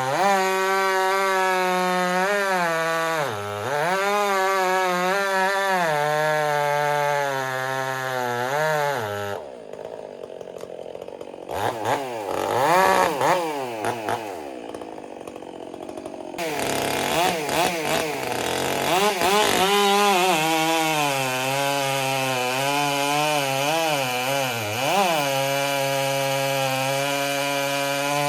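Stihl MS 400 C two-stroke chainsaw with an Egan Straight Shot aftermarket muffler, running at full throttle and sagging in pitch again and again as it cuts wood. About a third of the way in it drops to a lower, uneven run with a few revs for several seconds, then goes back to full throttle and cutting. The owner suspects the straight-shot muffler has cost the saw some torque.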